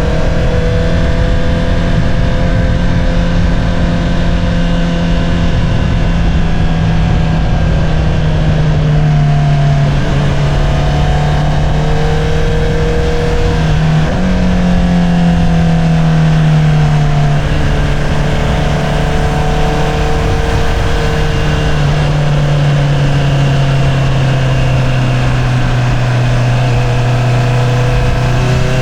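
2022 Honda CBR650R inline-four engine running through an Akrapovič single-outlet exhaust while riding at fairly steady revs. The pitch sags slowly, jumps up sharply about halfway through, then eases back down.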